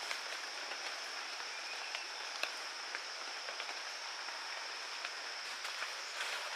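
Steady outdoor hiss, like light rain, with a steady high-pitched whine and scattered faint ticks.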